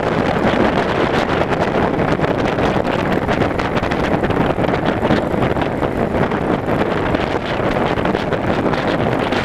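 Steady wind rushing over the microphone of a moving motorcycle, mixed with the bike's engine and road noise.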